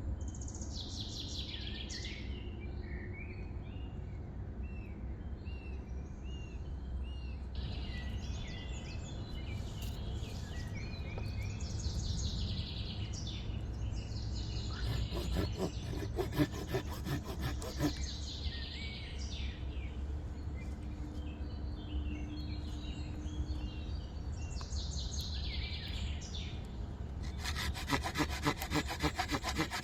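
Wood being cut with a hand saw in two spells of quick, even strokes, one about halfway through and one near the end. Birds sing repeated, falling whistled calls throughout, over a steady low rumble.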